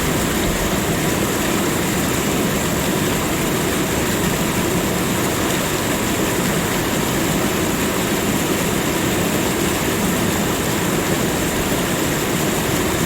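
Steady rush of flowing water, an even, unbroken noise that holds the same level throughout.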